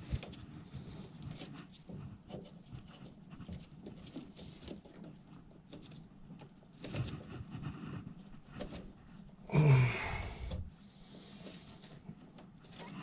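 Scattered small clicks, taps and knocks of hands refitting furnace parts and screws, with one louder rustling burst lasting about a second near ten seconds in.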